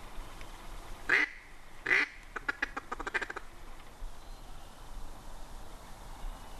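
Duck quacking: two loud quacks about a second apart, then a quick run of short chuckling notes.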